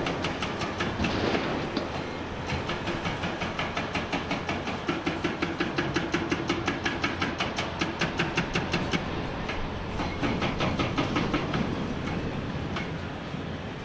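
Hydraulic breaker hammer on a Komatsu PC490 excavator pounding rock in rapid, evenly spaced blows, about nine a second. It hammers in a long run, pauses for about a second, hammers briefly again and then stops, with the excavator's engine running underneath.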